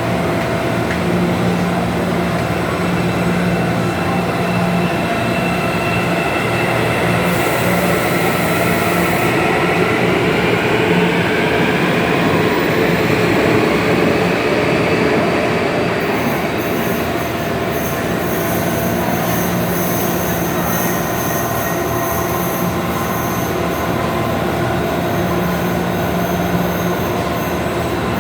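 Hyundai Rotem electric metro train moving through a station: a steady rumble with a pitched motor whine that rises and falls in the middle, and a short hiss about seven seconds in.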